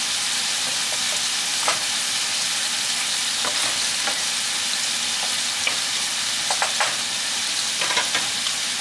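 Onions frying in a hot pan, a steady sizzle, with a few short clicks and taps of a utensil against the pan about two seconds in and again near the end.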